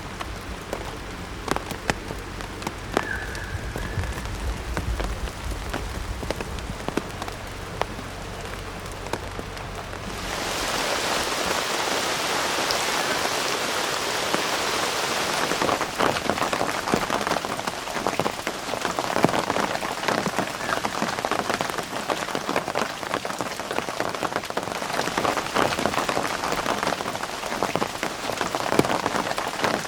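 Rain falling, many drops pattering irregularly with a low rumble underneath. About ten seconds in, the rumble stops and the rain turns louder and fuller, into a steady hiss of drops.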